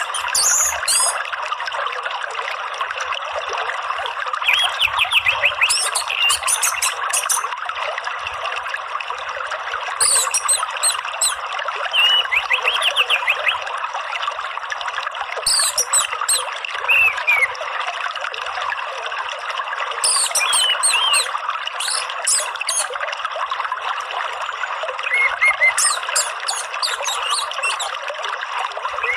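Steady flow of running water, with short bursts of high bird chirps and whistled calls every few seconds.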